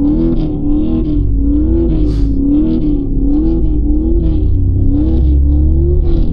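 BMW M3 Competition xDrive's twin-turbo straight-six and tyres rumbling steadily inside the cabin as it drives through snow. A wavering tone rises and falls over it about every 0.7 seconds.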